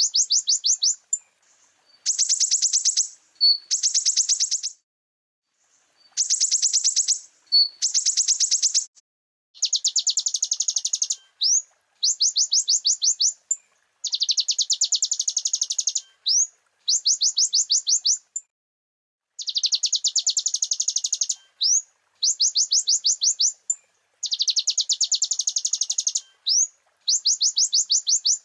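Konin (kolibri ninja) sunbird singing: a string of fast, high, buzzy trills, each a second or two long, broken by short pauses and quick upward-sweeping chips.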